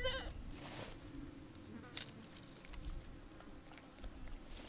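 Faint steady buzzing hum, with a single sharp click about two seconds in.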